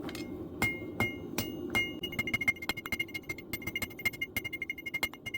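Blacksmith's hammer striking metal on an anvil, each blow ringing with a high tone. There are a few spaced strikes in the first two seconds, then quick strikes several a second, over a steady low hum.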